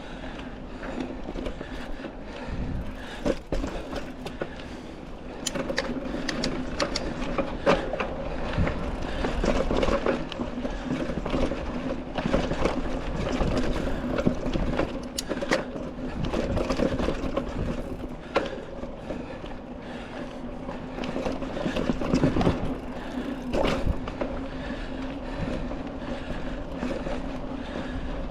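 Mountain bike rolling along a dirt trail on knobby tubeless tyres: a steady low drone with frequent knocks and rattles as the bike goes over roots and bumps.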